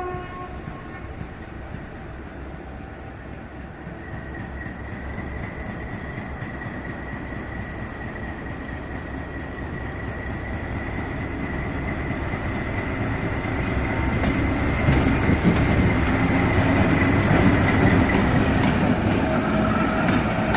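Train approaching on the rails, growing steadily louder, with clatter of wheels over the track. A thin high whine holds steady through most of it.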